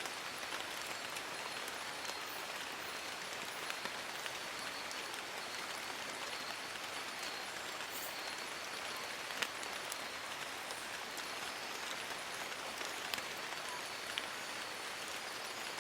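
Steady rain falling on forest leaves: an even hiss with scattered louder single drops, the sharpest about nine seconds in.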